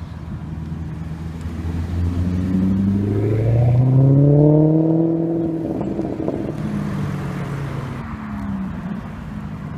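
A sports car's engine accelerating, its pitch climbing and getting louder to a peak about halfway through, then easing off and fading.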